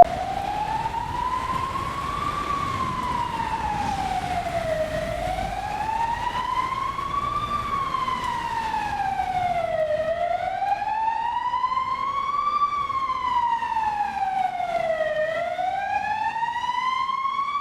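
Emergency vehicle siren sounding a slow wail: one tone that rises and falls in pitch, about once every five seconds.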